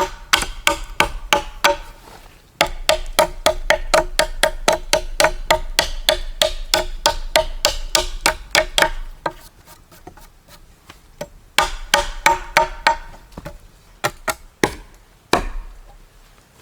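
Rapid sharp knocks of a tool striking wood, about four a second, each with a short pitched ring. They run steadily, stop briefly around ten seconds in, come back in a quick run, and end with a few scattered knocks.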